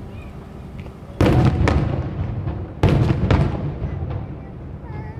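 Aerial fireworks shells bursting: two loud bangs about a second and a half apart, each followed by a string of smaller pops that fade away.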